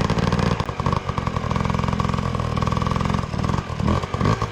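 Two-stroke dirt bike engine running at low revs, a steady rapid pulsing that rises and falls only slightly.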